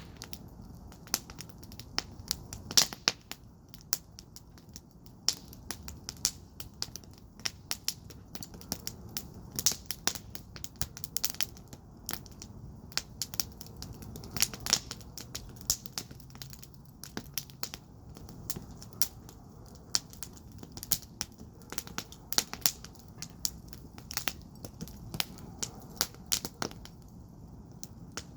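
Wood fire burning in a firepit, crackling and popping with many irregular sharp pops over a low, steady rumble of flame.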